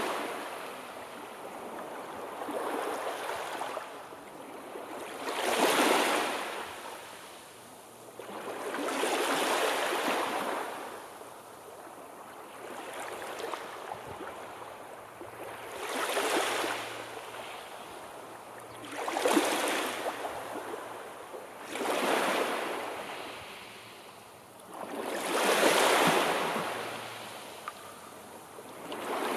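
Sea waves breaking and washing in, the surf swelling and ebbing about every three to four seconds.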